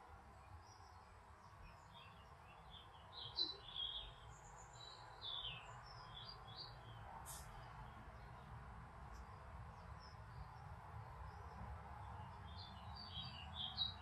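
Faint songbird chirping: clusters of short high notes a few seconds in and again near the end, over a low steady background noise.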